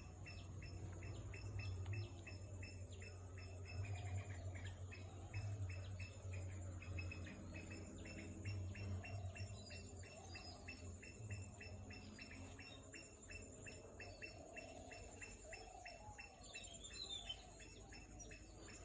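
Outdoor bird and insect chorus: a short chirp repeating about four to five times a second over a steady high-pitched insect buzz, with low wind rumble during the first half.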